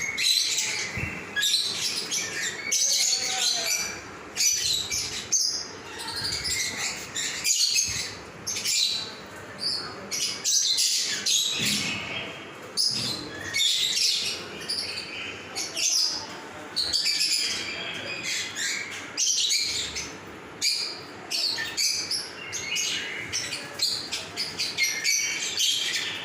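Small birds chirping continuously, many short high-pitched chirps overlapping one after another.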